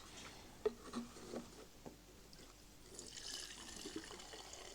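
Petrol being poured in a thin stream to prime the carburettors, a faint steady trickle starting about three seconds in, after a few light knocks of handling.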